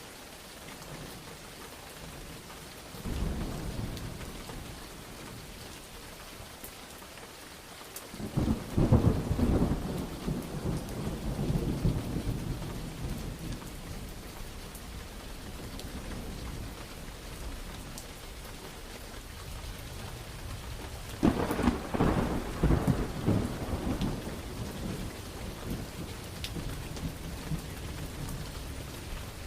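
Steady rain with thunder: a small rumble about three seconds in, then two loud claps that roll on for several seconds, the first about eight seconds in and the second about twenty-one seconds in.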